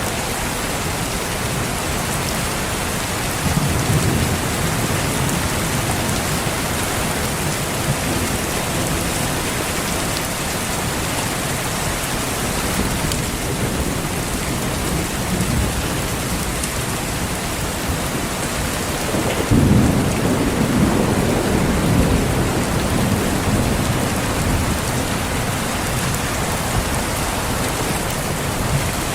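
Steady rain falling, with two low rolls of thunder: a shorter rumble a few seconds in and a louder, longer one about two-thirds of the way through.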